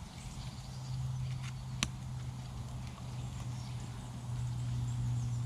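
Campfire of sticks crackling, with one sharp crack a little under two seconds in, over a steady low hum that grows louder about a second in.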